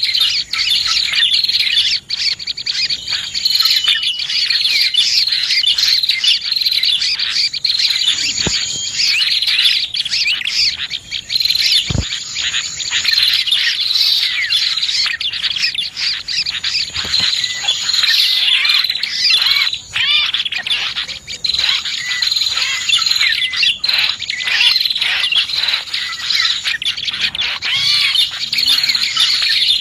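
Dense, unbroken chirping and twittering of many small songbirds: a lure call of prenjak (prinias) mixed with other small birds. A single sharp click about twelve seconds in.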